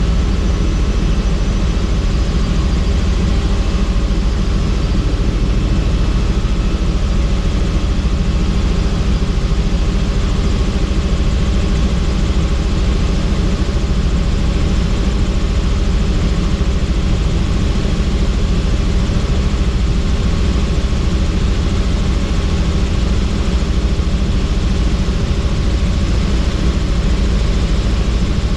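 Helicopter in flight, its rotor and engine noise loud and steady, heaviest in the low end.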